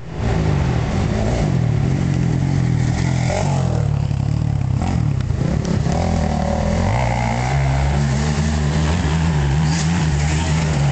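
Motocross dirt bike engines running hard, their pitch rising and falling with throttle and gear changes.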